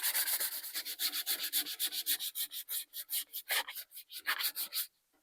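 Hand sanding of cured body filler: fast, even back-and-forth scraping strokes, several a second, that stop just before the end.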